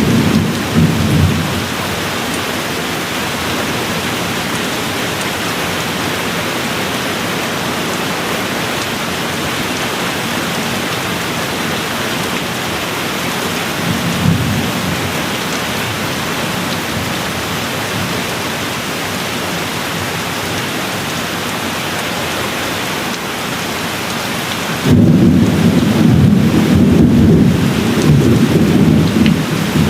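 Steady rain with thunder rumbling. A low roll fades out in the first couple of seconds, a short one comes about halfway, and a loud rumble sets in suddenly near the end and carries on.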